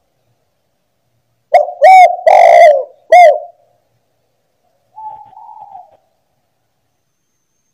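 Spotted dove (tekukur) cooing: a loud phrase of four coos begins about a second and a half in, with the third coo longer and rolling. A fainter coo follows about five seconds in.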